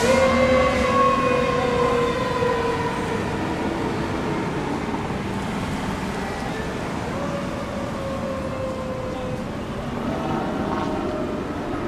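Fire engine siren wailing, its pitch gliding down and its level fading as the truck passes and draws away. A second, fainter downward wail follows later over road and engine noise.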